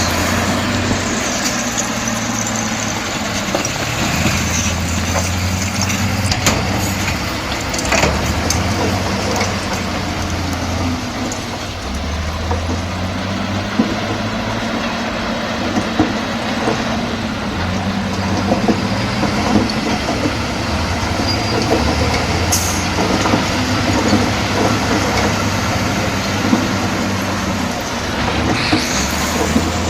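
Bulldozer's diesel engine running, its pitch and strength rising and falling every few seconds as the load changes, with scattered sharp clanks.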